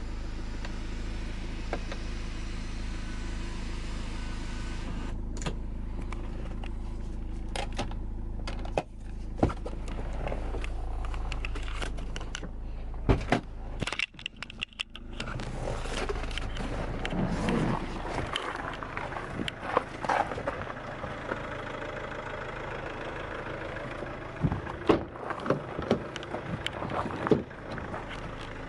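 Car engine idling with a steady low hum, under scattered clicks and knocks of the car being handled; the hum stops about 18 seconds in.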